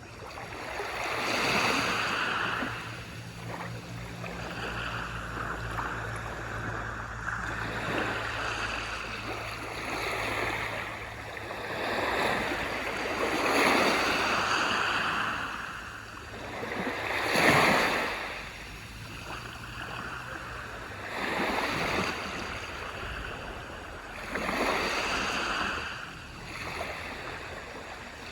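Small waves breaking and washing up on a beach, a surge every few seconds with the loudest about two-thirds of the way through. A low steady hum lies underneath and fades out about two-thirds of the way through.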